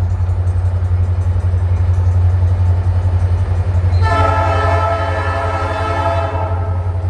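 Diesel freight locomotive horn sounding one chord-like blast of about two seconds, starting about four seconds in, over the steady low rumble of the approaching Norfolk Southern train.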